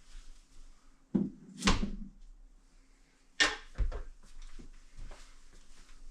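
Knocks and clatter of work on a door frame being fitted: two pairs of loud knocks, about a second in and about three and a half seconds in, with lighter taps between.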